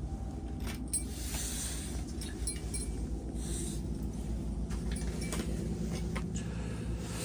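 Scattered small clinks and taps over a steady low rumble.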